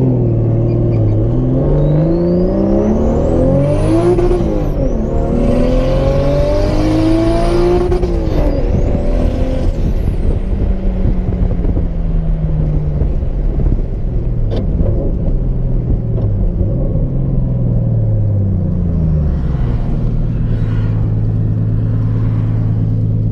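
Nissan RB-series turbocharged straight-six accelerating hard, revs climbing through two gears with a rising turbo whistle over each pull. It then eases off, the revs falling away and settling to a steady idle a few seconds before the end.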